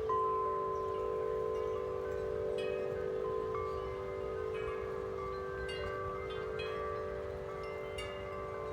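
A set of large tuned wind chimes ringing in strong wind. Deep tubes hum steadily underneath while higher tubes are struck at irregular moments, with a bright strike just after the start.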